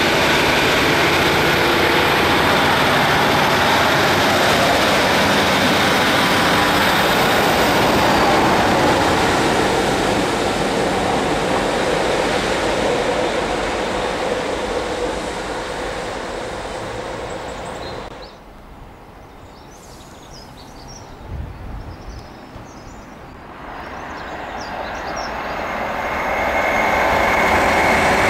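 A Northern Rail Sprinter diesel multiple unit running past close by, its engine and wheels on the rails fading as it moves away. After a short quieter stretch with a few faint high chirps, a Virgin Voyager diesel train is heard approaching, growing louder toward the end.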